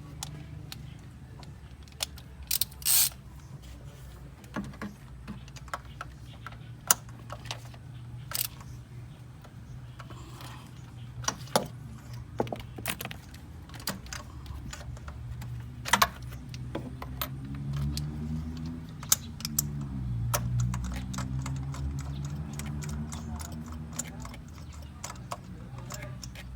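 Scattered metallic clicks and taps, like hand tools being handled on metal, over a steady low mechanical hum. The hum grows louder about two-thirds of the way in, and its pitch dips and then rises again.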